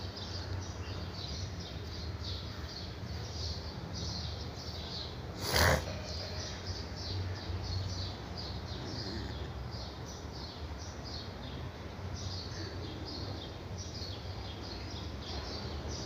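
Small birds chirping in quick, high, repeated notes throughout, over a low steady hum. A single sharp knock about five and a half seconds in is the loudest sound.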